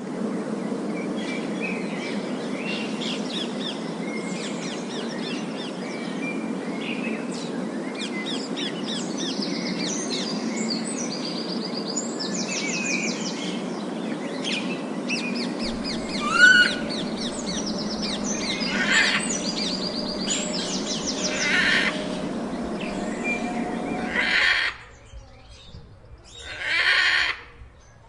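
Parrots calling: many chirps and trills over a steady low din of a crowd of birds. About 25 seconds in, this stops abruptly, and near the end there is a loud harsh squawk.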